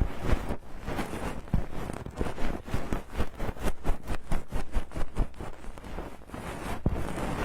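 An ear-cleaning tool scraping and rubbing inside a silicone ear on a binaural microphone, heard very close: a quick, uneven run of crackly scratches with a low rumble of handling.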